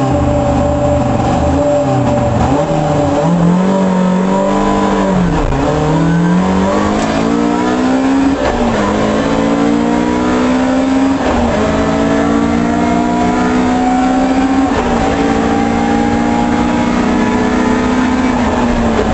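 Toyota Corolla GT Group A rally car's 1.6-litre four-cylinder engine, heard from inside the cabin. The engine revs unevenly for the first few seconds, then pulls hard under full throttle, its pitch climbing and dropping back at each of four upshifts.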